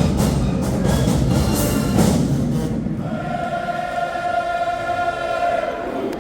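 HBCU marching band playing in an arena, drums and horns together for about three seconds, then a long held chord that dies away near the end.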